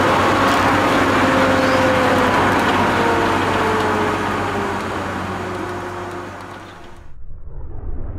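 Interior sound of a Volvo 850 T5R at speed: the turbocharged five-cylinder engine and road noise, with the engine note slowly falling in pitch. The sound fades out about seven seconds in and gives way to a duller, quieter sound.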